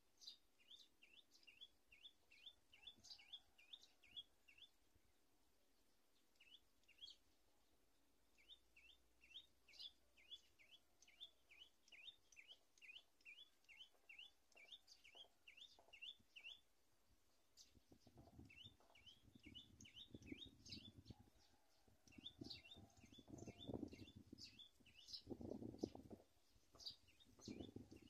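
A bird chirps in fast runs of short, rising notes, about five a second, with pauses between the runs. About two-thirds of the way through, irregular low rumbles join in and grow louder toward the end.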